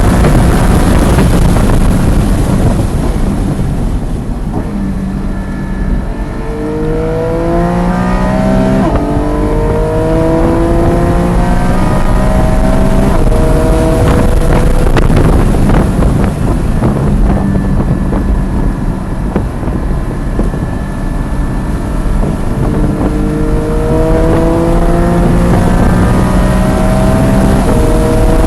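Porsche GT4's flat-six engine being driven hard on track, its pitch climbing under full throttle with a shift break about nine seconds in and again near the end. Two quieter stretches of lower, steadier engine sound, around five and around eighteen seconds in, where the car lifts off for corners. Wind noise runs under it.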